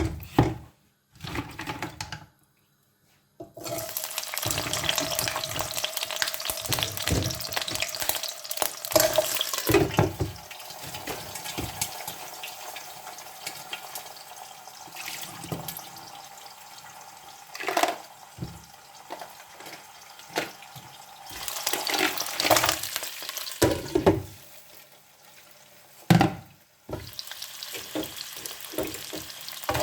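Food frying in hot oil in a frying pan, a steady sizzling hiss with a few louder surges of spitting.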